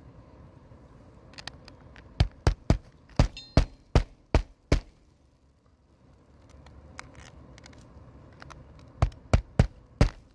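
Hammer driving roofing nails into a replacement shingle. A quick run of about eight sharp strikes starts about two seconds in, and after a pause another run of four or five strikes comes near the end.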